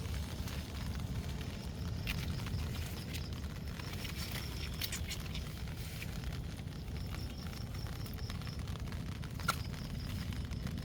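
Outdoor ambience: a steady low rumble with scattered small clicks and knocks, one sharper click near the end, and a faint high pulsing chirp.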